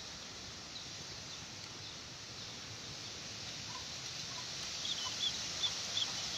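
Sooty-headed bulbul (kutilang) giving short, faint chirps over a steady hiss, with a quick run of calls in the last second and a half, the kind of call used to lure bulbuls.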